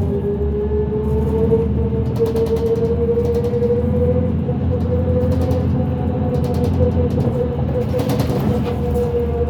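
Inside a 2005 New Flyer D40LF transit bus at speed: the Cummins ISL diesel drones low under a steady whine that rises slightly in pitch and then holds, the odd axle noise of this bus. Light rattles come through now and then.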